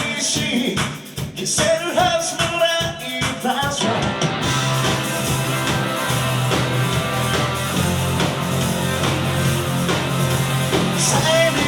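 Rock band playing: singing over electric guitar and drums for about the first four seconds, then a held instrumental passage of sustained guitar chords over a steady bass, with the voice coming back in near the end.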